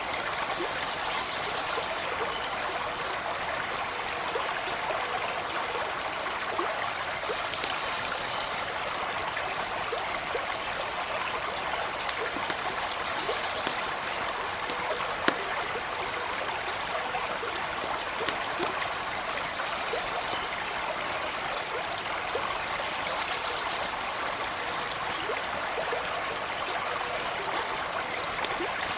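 A small stream babbling and trickling steadily, with a few sharp pops scattered through, the loudest about halfway in.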